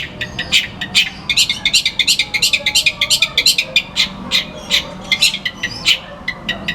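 Long-tailed shrike (pentet, also called cendet) singing a string of short, sharp, chattering notes, with a fast dense run from about one to three and a half seconds in.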